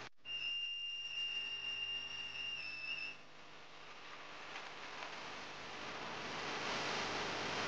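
A steady high-pitched whistling tone that lasts about three seconds and stops abruptly, followed by a hiss that grows steadily louder.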